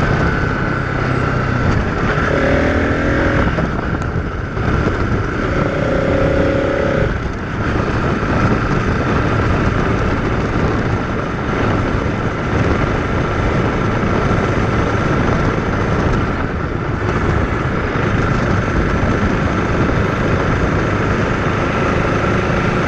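Motorcycle running along the road, with a steady, loud rush of wind and road noise over the microphone. Two short pitched sounds come through a few seconds in.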